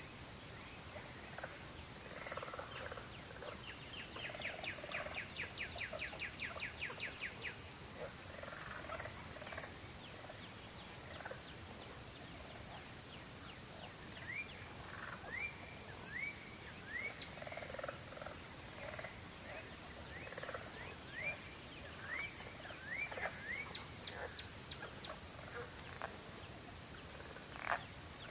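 A chorus of crickets at twilight gives a steady, unbroken high trill. Bird calls sound over it: a quick run of short notes a few seconds in, then scattered rising chirps in the second half.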